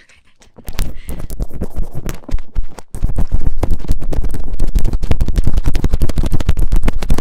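Rapid, close-up scratching and rubbing strokes on a daruma, made for ASMR. The strokes start light and become much louder and denser about three seconds in.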